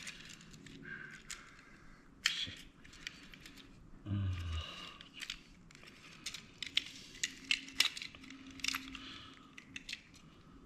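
Small plastic and metal parts of a dome security camera being handled and worked loose during disassembly: irregular clicks and light taps, with one duller knock about four seconds in.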